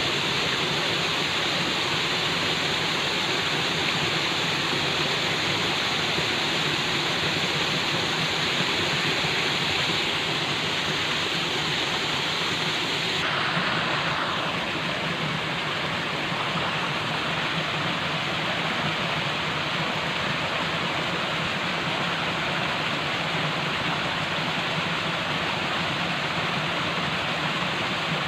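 Falling water rushing steadily in an even, unbroken hiss; about halfway through the sound turns slightly duller.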